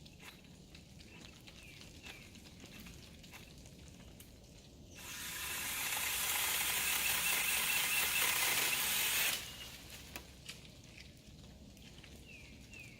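Cordless electric pole saw, an 8-inch mini chainsaw on a pole, running and cutting through a branch for about four seconds. It starts about five seconds in and stops suddenly.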